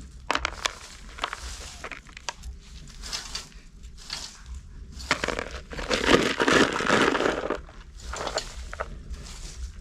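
Irregular crinkling and rustling with sharp clicks, louder for a couple of seconds past the middle, as something is handled.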